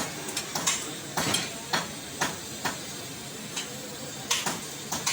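Sharp, irregular taps or knocks, roughly two a second, over a steady hiss.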